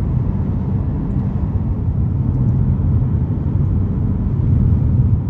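A car driving along at a steady speed, with a low, steady rumble of road and engine noise.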